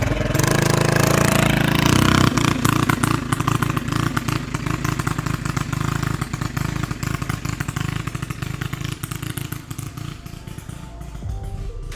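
Tillotson 212cc single-cylinder engine of a mini bike with a torque converter, revving hard as the bike pulls away and then fading steadily as it rides off.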